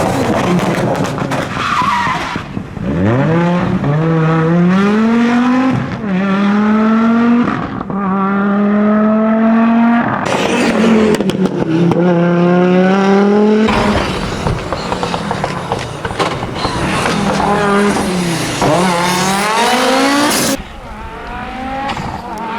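Audi Quattro S1 rally car engine under hard acceleration. The pitch climbs and drops back sharply at each gear change, about 2.5, 10 and 13.5 seconds in. The engine falls away again near 18.5 seconds, and the sound drops much quieter about 20.5 seconds in as the throttle comes off.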